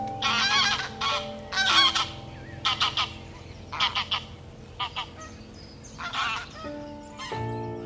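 A bird honking in a series of short calls, about eight in all, with steady low sustained notes underneath.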